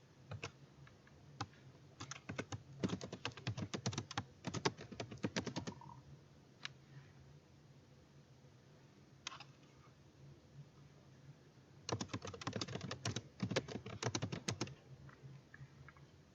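Typing on a computer keyboard: two runs of rapid keystrokes separated by a pause of several seconds with only a few single taps, over a faint steady low hum.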